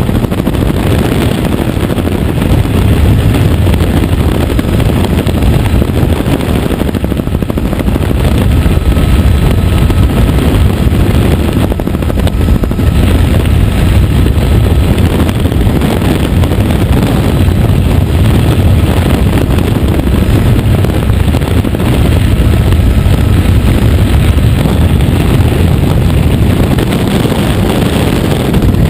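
Helicopter in flight, heard from on board: a loud, steady, low roar of rotor and engine.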